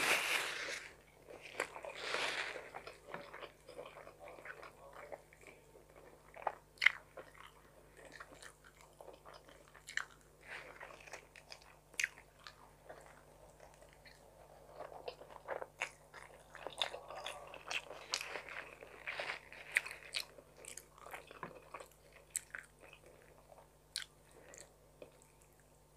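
Close-miked eating: chewing and mouth sounds over mouthfuls of tuna carbonara, with scattered sharp clicks of a metal fork against a glass plate. A paper napkin rustles against the mouth at the start.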